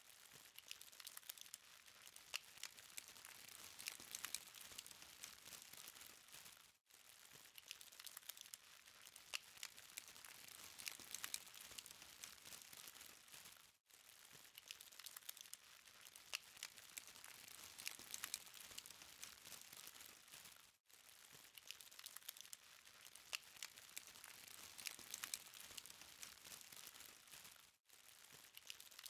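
Charcoal fire crackling faintly: a steady patter of tiny sharp pops and ticks over a soft hiss. The sound cuts out for a split second about every seven seconds.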